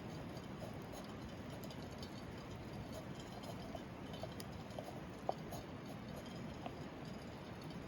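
Wood campfire burning with a steady low hiss and scattered small crackles and pops, the sharpest pop a little past halfway.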